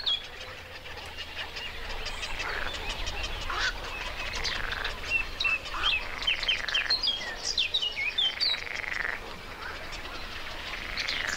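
A chorus of frogs croaking continuously, with many short, high bird chirps mixed in.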